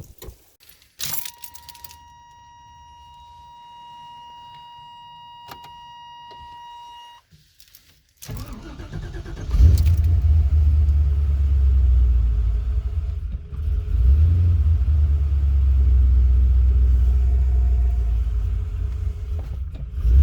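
A steady electronic tone sounds for about six seconds. Then, about eight seconds in, a car engine cranks and catches, and it runs on with a loud, steady low rumble.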